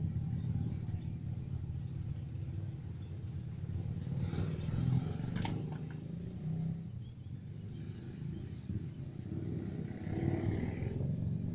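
Electrical tape being pulled off the roll and wrapped around the wire connections of a washing-machine motor capacitor: crackly tearing and handling noise, with a sharp click about five and a half seconds in, over a steady low hum.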